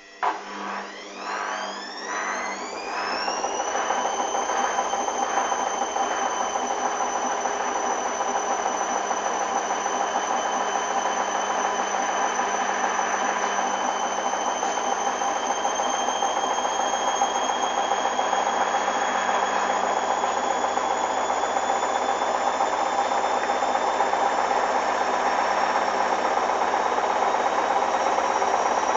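Hoover DYN 8144 D washing machine going into a spin: the motor starts suddenly and its whine rises steeply with a few pulses over the first four seconds or so, then settles into a steady high whine that keeps climbing slowly as the drum gathers speed.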